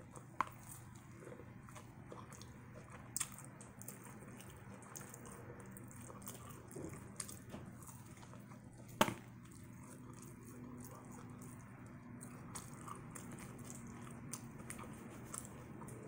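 Close-up chewing and biting on crispy battered fried corn on the cob, with a few sharp crunches, the loudest about nine seconds in.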